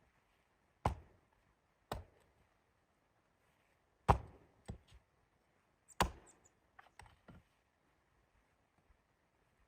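A series of sharp, irregular knocks, like chopping or hammering on wood: five clear strikes a second or two apart, then a few lighter taps, with quiet in between.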